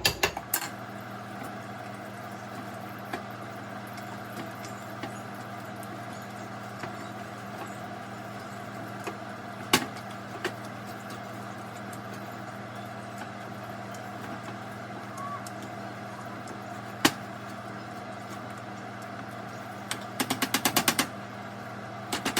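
Refried beans being mashed in a pan with a bean masher: a steady hum in the background with an occasional single knock, then near the end quick runs of rapid strikes as the masher pounds against the pan.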